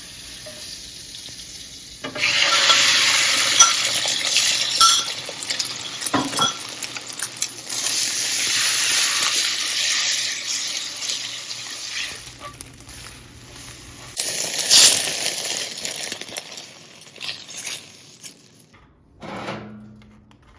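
Food sizzling in a hot pan, starting suddenly about two seconds in, with stirring and scattered clinks of a utensil against the pan. The sizzle dies down near the end.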